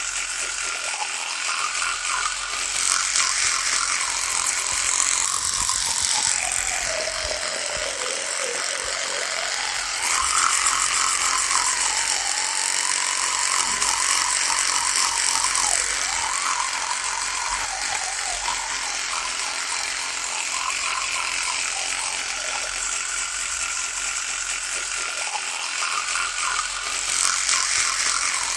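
Electric toothbrush running with a continuous rattling buzz. Its pitch sags and wavers about a third of the way through, then recovers.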